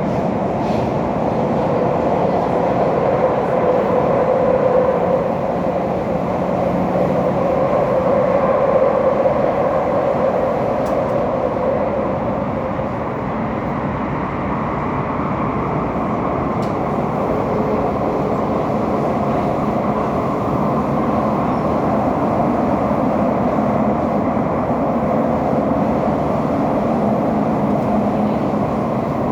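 Elizabeth line Class 345 electric train running at speed, heard from inside the carriage: a steady rumble with a humming tone that drifts slightly in pitch.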